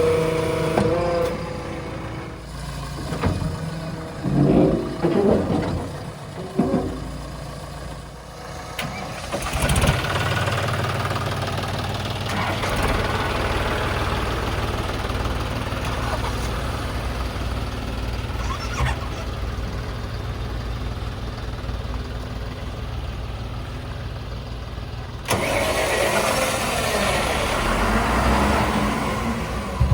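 Diesel engine of heavy earthmoving or haulage machinery, changing pitch with several loud surges in the first few seconds, then running steadily. About five seconds before the end the sound suddenly gets louder.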